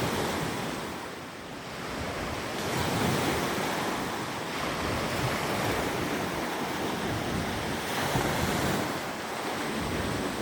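Steady rushing noise of surf and wind that ebbs about a second in and swells again a couple of seconds later.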